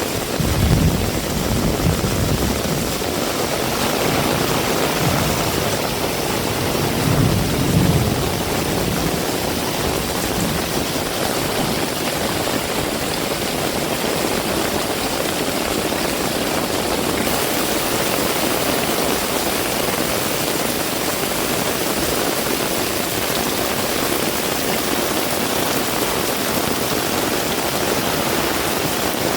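Heavy rain falling in a steady hiss, with two brief low rumbles, about a second in and around seven seconds in.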